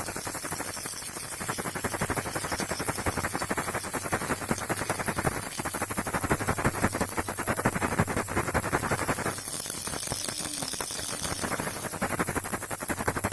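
Baby rattle being shaken without pause, a dense run of rapid rattling clicks.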